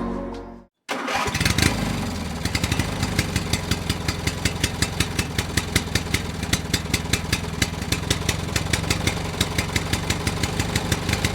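Music fades out, then after a brief silence a mini tractor's small engine runs with an even, rapid beat of pulses.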